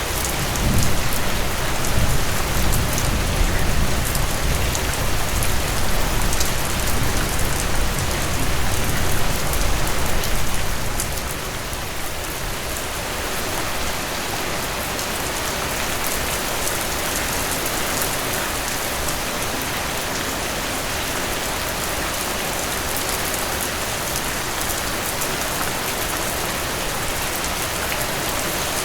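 Steady rain falling on a surface, a dense, even hiss of drops. For about the first ten seconds a low rumble runs under it, then fades, leaving the rain alone.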